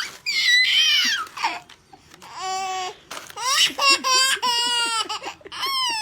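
A baby laughing and squealing in several high-pitched bursts.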